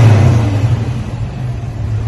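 1989 Ford Mustang GT's 5.0 V8 through a new 2.5-inch true X-pipe exhaust with Flowmaster 40 knockoff mufflers, dropping back from a rev and settling toward idle with a low, steady exhaust note.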